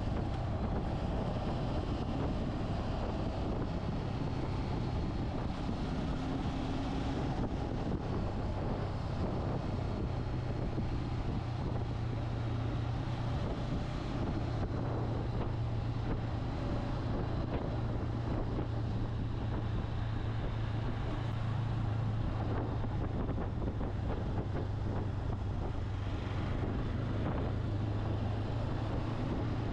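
Motorcycle engine running at a steady cruising pace, a constant low drone, with wind rushing over the microphone.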